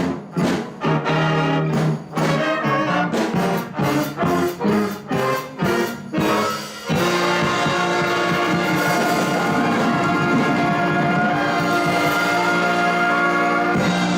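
Live band with brass (trombones and trumpets) playing a run of short, punchy chord hits, then about halfway through holding one long sustained chord: the song's closing.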